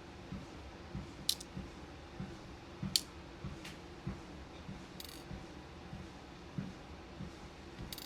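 Footsteps thudding softly on a walking pad at an even pace, a step about every 0.6 seconds, over the pad's steady motor hum. About five sharp clicks and small rattles of beads and plastic bead containers being handled.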